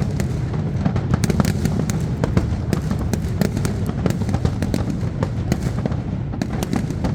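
Fireworks display: dense rapid crackling and popping of shells bursting, over a continuous low rumble.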